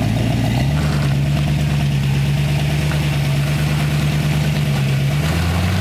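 Rock crawler's engine running at low revs, stepping up slightly about half a second in, holding steady, then easing back near the end.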